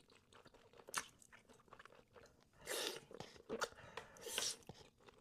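Close-miked mouth sounds of eating: faint chewing and biting with a few short crunchy bursts of spicy noodles and seafood, and a small click about a second in.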